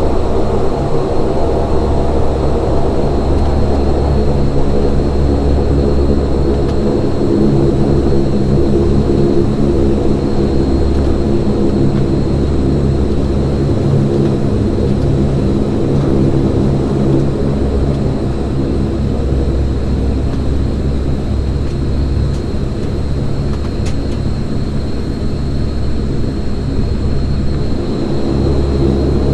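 Saab 340B's GE CT7 turboprop engine and propeller heard from a cabin seat beside the propeller, running steadily at low power while the aircraft taxis. A deep drone of even propeller tones with a fluctuating low rumble and a thin steady whine high above.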